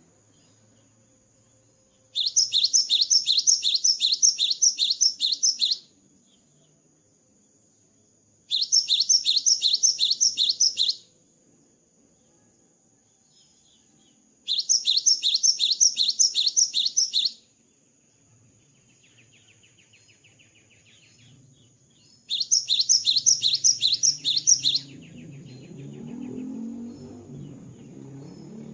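Cinereous tit (gelatik batu) singing four loud bursts of fast, repeated high notes, each a few seconds long with short pauses between, in its full post-moult song. A low rumbling noise rises near the end.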